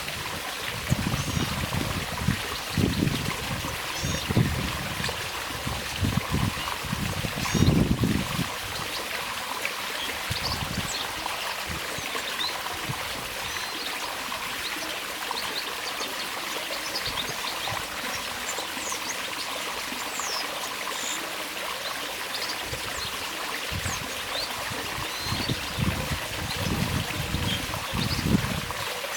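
Water trickling steadily, with many short, high chirps and calls of small aviary birds scattered throughout. Low rumbling thumps come in the first eight seconds and again near the end.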